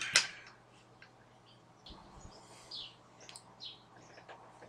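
Faint, scattered bird chirps over a low steady hum, with a few light clicks and a low bump about two seconds in.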